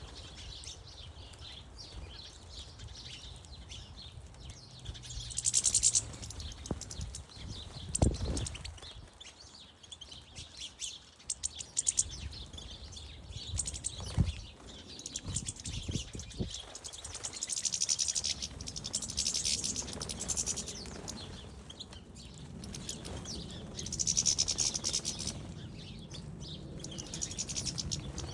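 Small garden birds chirping and twittering in several high bursts, with a few sharp taps in between.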